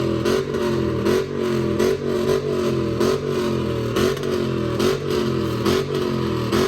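Car engine revving in quick repeated blips, the pitch climbing and dropping back each time, over the steady low drone of idling engines.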